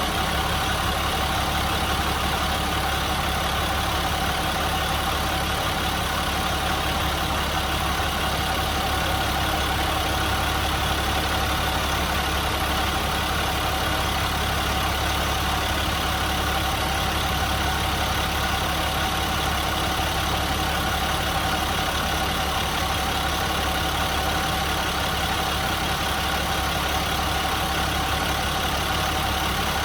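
School bus diesel engine idling steadily.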